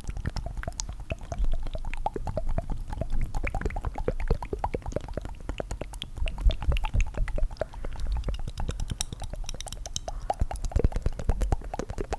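Rapid, wet tongue fluttering into the microphone, layered: a dense stream of quick clicks and pops with low, bassy thumps.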